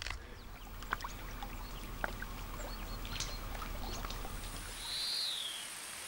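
Faint lake water sounds, with small splashes and scattered light clicks, as from a small boat on the water; a short high whistle rises and falls about five seconds in.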